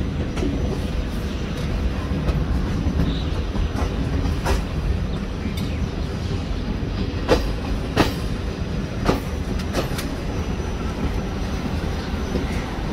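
Moving passenger train heard from inside the coach: a steady low rumble of wheels on rails, with a few irregular sharp clacks.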